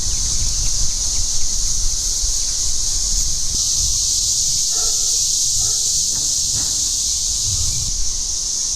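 A swarm of cicadas singing together: a loud, steady, high-pitched drone that swells a little about three and a half seconds in.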